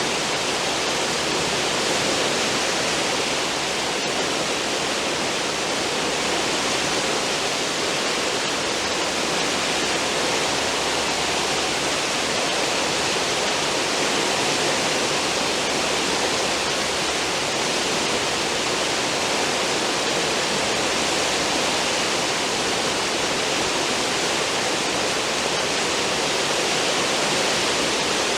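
Steady rush of churning water in a cruise ship's stern wake, an even noise with no breaks or surges.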